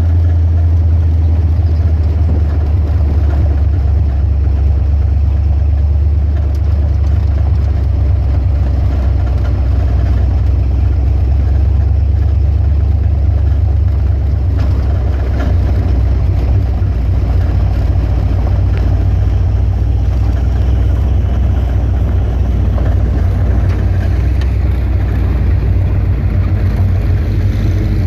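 BluePrint Engines 306 cubic-inch small-block Ford V8 in a Factory Five '33 hot rod running at low speed near idle, a steady low rumble as the car creeps along.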